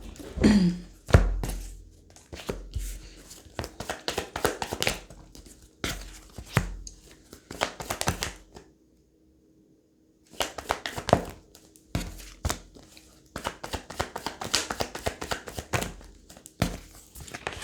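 Tarot cards being shuffled and handled, a fast run of flicking, slapping clicks broken by about a second and a half of silence a little past the middle.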